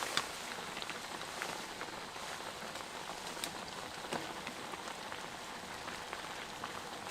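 Snow pattering steadily on a surface in a snowstorm: an even hiss with scattered light ticks.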